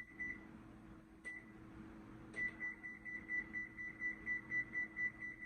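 Digital kitchen timer being set for 20 minutes: a couple of single beeps as its buttons are pressed, then from about two seconds in a fast run of short beeps, about four a second, as the minutes step up. A steady low hum lies under it.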